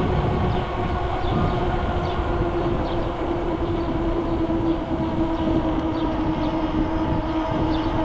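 Steady mechanical drone of a moving vehicle, several steady hum tones over a loud low rumble.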